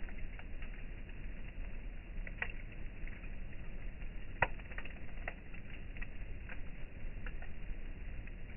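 Campfire crackling: irregular sharp pops and snaps of burning wood, the loudest about halfway through, over a steady low background noise.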